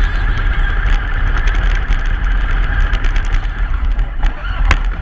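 A truck driving on a snowy road: a loud, steady low rumble of engine and tyres, with many small clicks and rattles. A sharp knock comes near the end.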